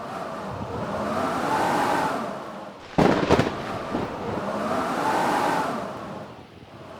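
Blizzard wind howling in swelling gusts, with a whistling tone that rises and falls. About three seconds in comes a sudden loud crack, followed by a few sharp knocks.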